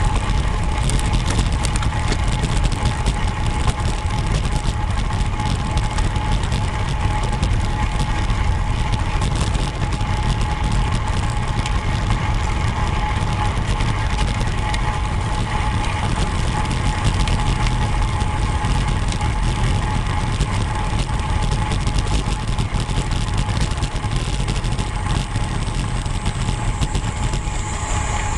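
Wind rumble and road noise on a camera carried on a moving road bike, steady throughout, with a faint steady whine above it.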